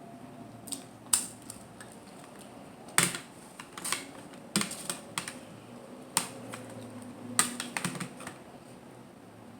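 Close-miked seafood mukbang eating sounds: a series of sharp, irregular clicks and taps from handling and eating mussels and clams, the loudest about a second in and three seconds in.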